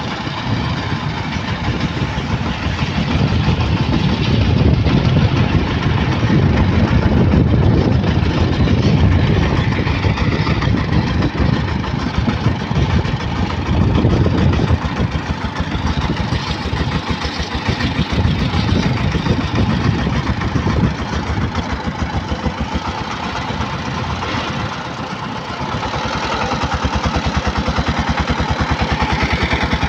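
Single-cylinder Changfa-type diesel engine of a votvoti motor van running with a rapid, even knocking beat. The level dips briefly about 25 seconds in, then the engine runs on slightly louder and steadier.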